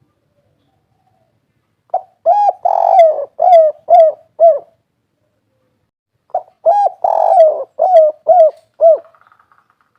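Spotted dove (tekukur, derkuku) of the 'kuk 3' song type cooing: two phrases of about six short coos each, a few seconds apart, the second about six seconds in.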